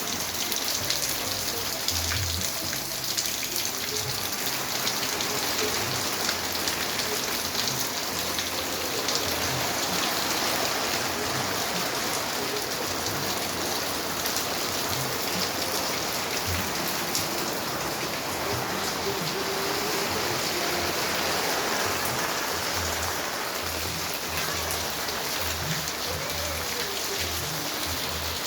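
Steady rain falling on a fish pond's water surface: a dense, even patter of drops.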